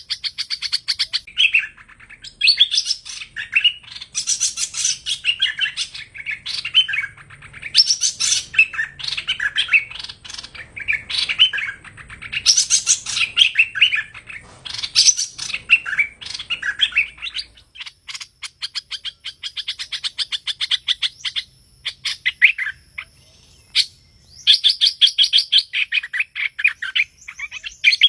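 A hoành hoạch songbird calling in a long run of loud, varied chirping phrases. Partway through, the phrases give way to a fast run of dry clicking, then the chirping phrases start again near the end. This is the 'thơm' call type that keepers play back as a trapping lure.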